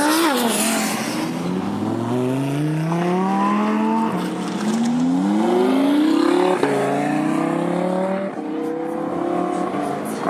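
Supercar engine accelerating hard through the gears. Its note climbs steadily, then drops sharply at each upshift, several times over, with a crisp snap at one of the shifts.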